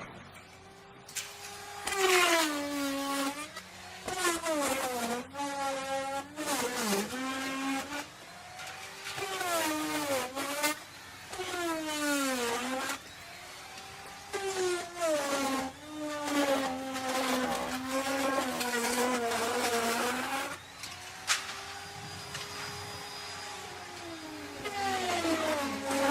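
Wood router running and cutting wood, its motor whine sagging in pitch again and again as the bit bites in under load, then climbing back as it frees up.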